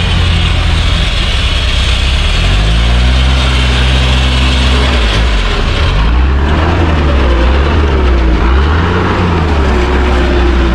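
Off-road 4x4 engines under load as one vehicle tows another up a rutted dirt slope on a rope. The revs climb about two and a half seconds in and drop near five seconds. They then rise and fall several times before settling to a steady run.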